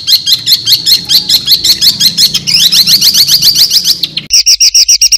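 Recorded songbird calls of the kind used to train white-rumped shamas and contest birds: fast, sharp, high notes, about eight a second, which turn into quicker rising notes about halfway through. A little after four seconds they cut abruptly to an even faster, steady trill, and a low hum lies under the first part.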